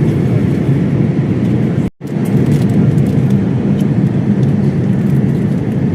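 Steady low rumble of an airliner cabin, engine and airflow noise heard from inside the plane, breaking off for an instant about two seconds in.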